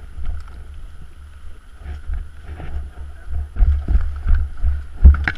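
Low rumbling buffeting on the microphone, with a run of knocks and bumps in the last two seconds; the loudest comes about five seconds in.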